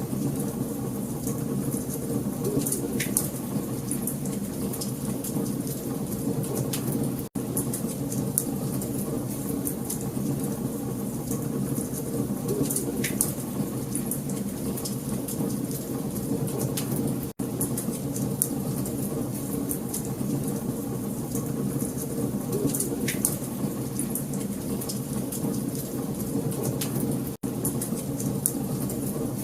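Wood fire crackling, with many small sharp pops over a steady low rush of burning. The sound cuts out for an instant three times, about every ten seconds.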